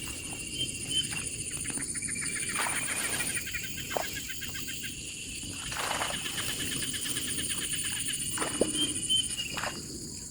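Wild animals and birds calling outdoors: a steady high-pitched chirring goes on throughout, with short chirps and clicks scattered over it.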